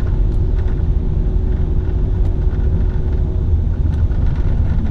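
Steady low rumble of a car being driven: engine and tyre road noise.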